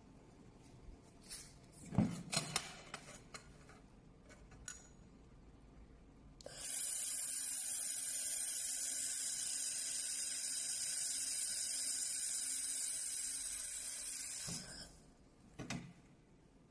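A few clicks and knocks, then a fiber laser welder running for about eight seconds as one steady high hiss that starts and cuts off abruptly. Two more clicks follow.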